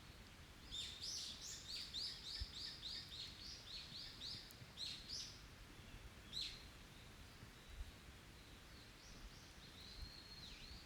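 A songbird singing a rapid run of about fifteen repeated sharp, high notes, three or four a second, followed by a single note and some fainter calls near the end.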